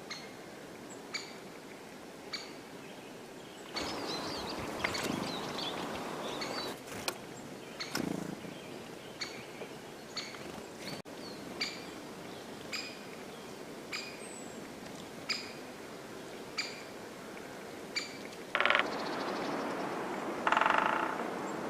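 A bird repeating one short, clear call note at an even pace of about one every second and a bit. Two stretches of louder rustling noise come through, one early and one near the end.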